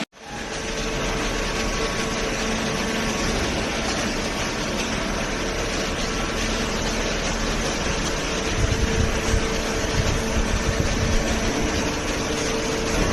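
Hydraulic cardboard baler running: a steady mechanical hum from its pump and motor, with some uneven low rumbling about two-thirds of the way through.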